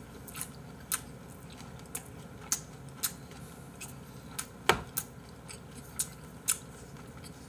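Close-miked chewing of a mouthful of braised mackerel: irregular wet mouth clicks and smacks, roughly one every half second to a second, with one louder click a little past the middle.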